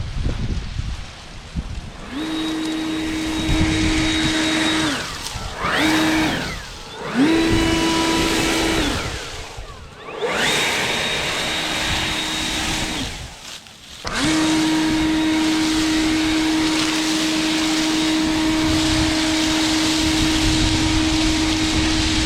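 RYOBI leaf blower whining as it is triggered on and off: five runs, each spinning up to a steady pitch and winding down again, the last and longest lasting about eight seconds. Wind buffets the microphone underneath.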